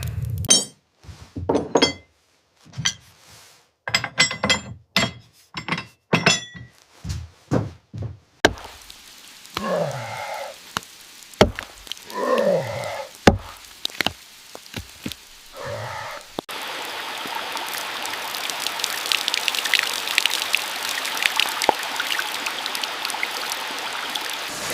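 A run of sharp knocks and thunks with short silent gaps, then a few sounds that slide down in pitch among more knocks. About two-thirds of the way in, steady rain begins.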